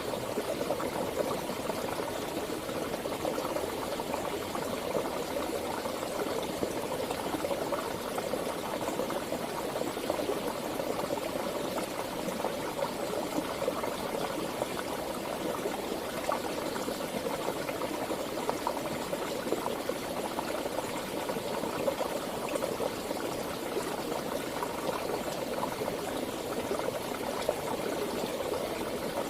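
Water flowing steadily over rocks, a constant babbling and gurgling of a stream.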